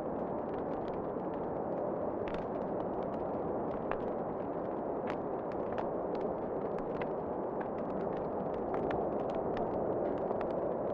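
Wood fire crackling in a fireplace: irregular sharp pops and snaps scattered through, over a steady rushing noise.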